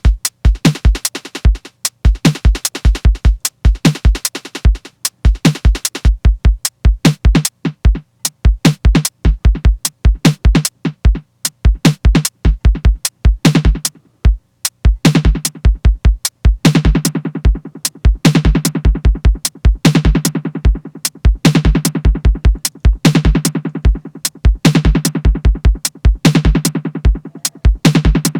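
Electronic drum-machine pattern with kick and snare hits playing in a steady loop, with a snare delay echoing after the hits. About halfway through, a repeating low synth note pattern joins.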